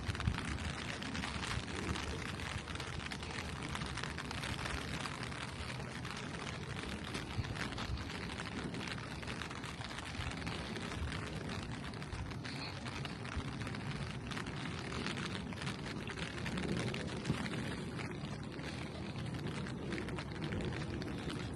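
Steady rain falling on a street, a dense even hiss with many small drop ticks through it.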